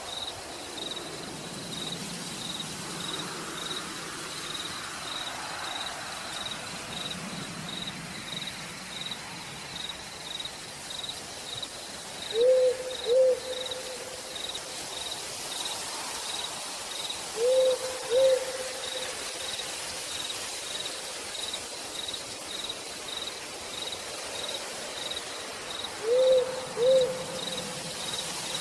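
Night forest ambience: rain hissing steadily, an insect chirping in an even rhythm of about two chirps a second, and an owl giving pairs of hoots three times, about twelve, seventeen and twenty-six seconds in, the loudest sounds.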